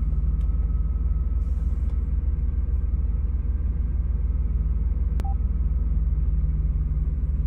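A 1988 Chevrolet Camaro's engine idling steadily, heard from the driver's seat. A short faint beep sounds about five seconds in.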